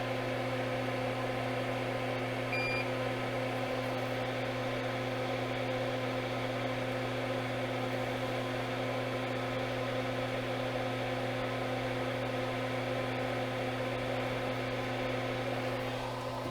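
Steady electric fan drone of a bench solder fume extractor, with a short electronic beep about two and a half seconds in.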